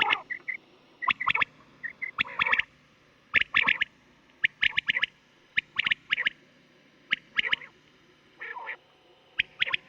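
Quail calling from a hunting-call recording: quick groups of three or four sharp, clipped notes, repeated about once a second.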